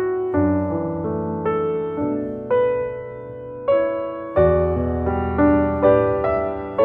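Slow solo piano music: single struck notes and chords that ring and fade, with low bass notes underneath.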